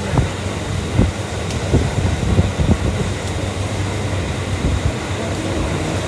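Electric commuter train running at speed, heard from inside the car: a steady rumble and hum with irregular short knocks from the wheels over the track.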